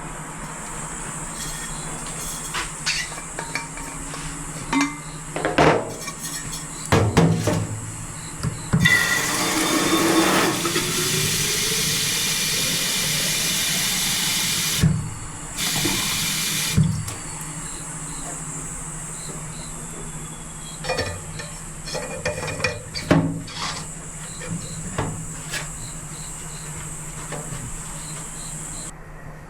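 Water being poured into a pot or kettle for about six seconds, the pitch rising as the vessel fills. A shorter second pour follows, with light clinks of dishes before and after.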